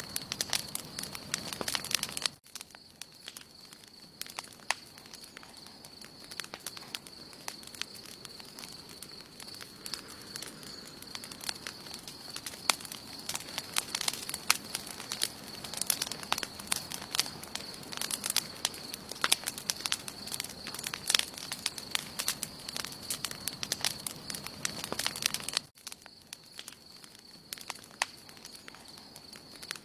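Wood campfire burning, crackling with many sharp pops and snaps over a soft rush of flame. The crackling drops away suddenly about two seconds in, then builds back up, and drops again near the end.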